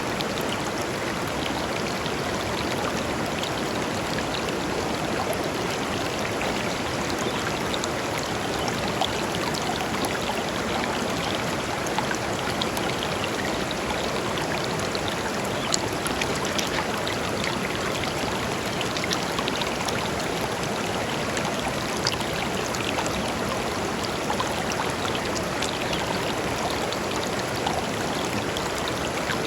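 A shallow river flowing steadily over stones, with a constant rush and many small splashes and trickles.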